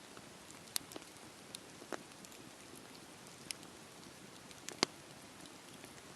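Campfire burning: a soft steady hiss with scattered sharp pops and crackles from the burning wood, the loudest a little under a second in and just before five seconds in.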